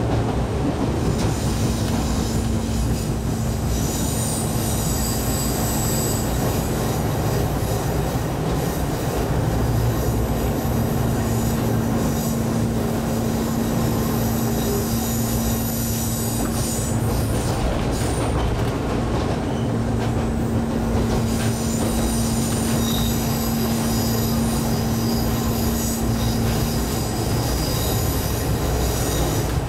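Cabin running noise of an ex-Keio 5000 series electric railcar under way: a continuous rumble of wheels on rail, with a steady low hum that comes and goes. A high-pitched wheel squeal rises and fades in stretches, as on curves.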